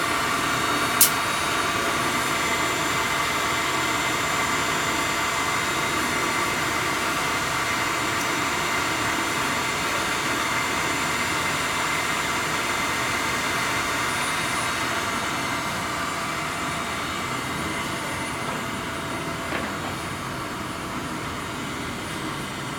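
Schaublin 34-CNC machining centre running steadily: an even machine hum with several steady tones, and one sharp click about a second in. The hum eases slightly in the last few seconds.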